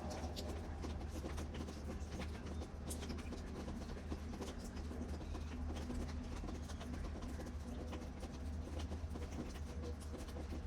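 Rain pattering and dripping in irregular drops over a steady low hum.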